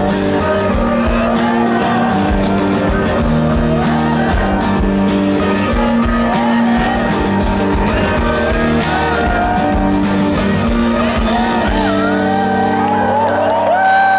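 Live rock music: a lead voice sings a wavering melody over held guitar and band chords, ending in a long sustained sung note near the end.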